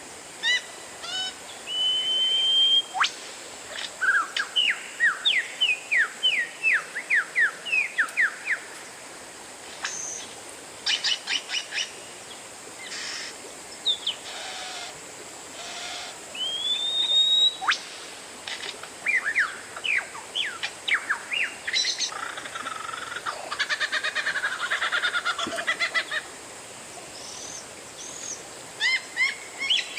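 Oriental magpie-robin (kacer) singing a varied song: clear whistles that rise and fall, quick runs of downward-sweeping notes, short rattles, and a buzzy, scratchy stretch about three-quarters of the way through.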